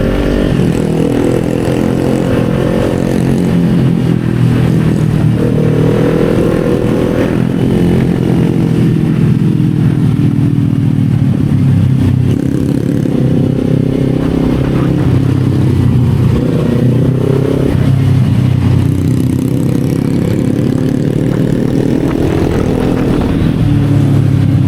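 Kawasaki Z400 parallel-twin engine pulling under way. The revs climb and drop again several times as the bike accelerates and shifts or rolls off the throttle.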